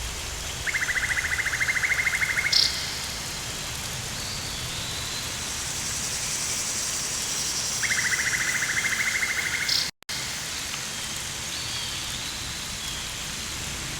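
Rainforest ambience: a steady hiss of rain and insects, broken twice by a rapid, buzzy pulsed trill about two seconds long that ends in a short higher note. About ten seconds in, the sound drops out for an instant.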